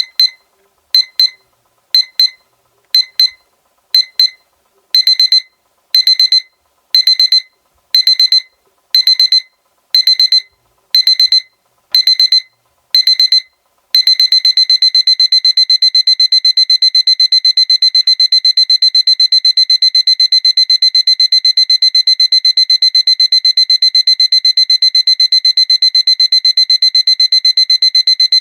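Seiko electronic alarm clock sounding its high-pitched beeping alarm: short double beeps once a second, turning into longer beeps about five seconds in, then about halfway through switching to a continuous fast beeping as the alarm steps up.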